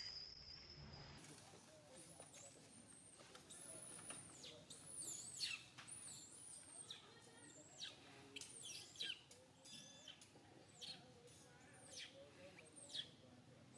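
Faint high bird chirps, each sweeping quickly downward in pitch, repeated irregularly about once a second.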